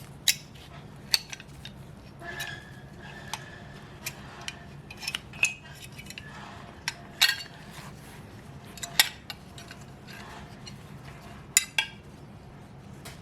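Irregular sharp metallic clicks and clinks of steel drum-brake shoes, springs and hardware being handled and seated on the backing plate, about a dozen over the stretch, with a brief light ring after some.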